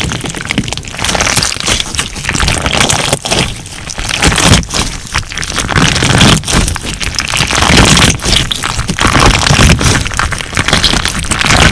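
Crunch slime being squeezed and pressed by hand, giving a dense run of crackles and pops that swells and eases about once a second.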